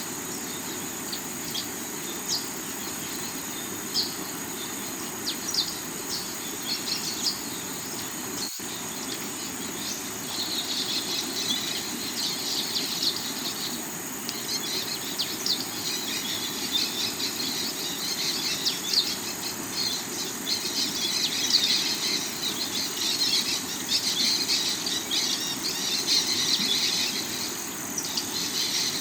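Water of a rocky river rushing steadily, under forest sounds: a constant high insect drone and busy bird chirping that grows denser about ten seconds in.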